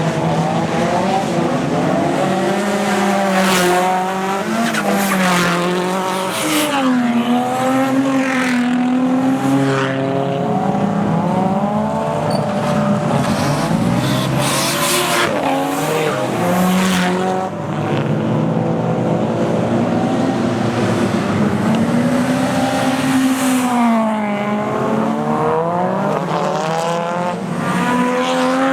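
Drift cars' engines revving hard, more than one at once, their pitch swinging up and down again and again as the drivers work the throttle through the slides, with short bursts of tyre noise.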